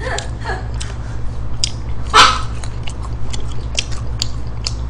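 Close-up eating sounds of French fries being chewed, with wet mouth and lip clicks scattered throughout. One louder short sound comes about two seconds in, and a steady low hum runs underneath.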